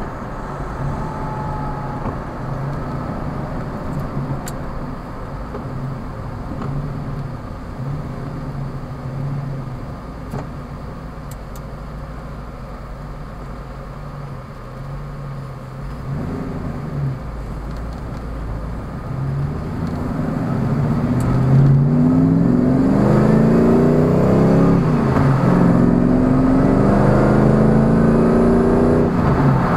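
Engine of a Lamborghini Countach replica heard from inside the cabin, running steadily at low revs, then about twenty seconds in revving up hard under acceleration, its pitch climbing twice with a drop for a gear change between.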